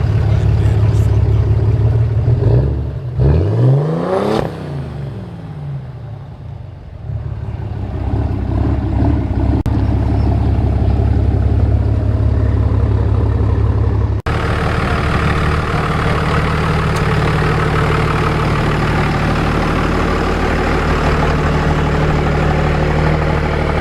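Diesel truck engines running: one engine runs steadily, and its pitch rises and falls sharply about three to four seconds in. After an abrupt change about fourteen seconds in, another loud engine runs steadily.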